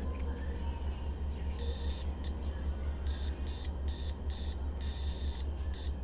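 Electronic beeper sounding a single high steady tone in about eight uneven, irregularly spaced beeps, some short and some held for over half a second, starting about a second and a half in. A steady low electrical hum runs underneath.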